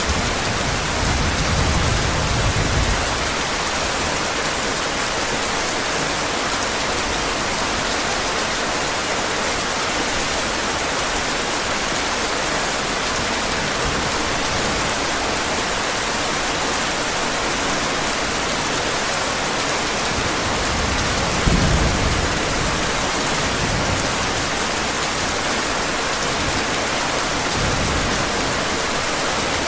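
Heavy rain falling in a steady hiss, with low rumbles of thunder in the first few seconds and again about twenty seconds in.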